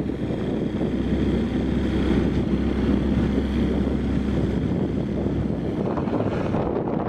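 Outboard motor on a small wooden boat running with a steady note, wind buffeting the microphone; about six seconds in the steady note breaks off. The motor makes lots of racket but won't open up, which the owner guesses is the leg sitting too high so the propeller is starving for water.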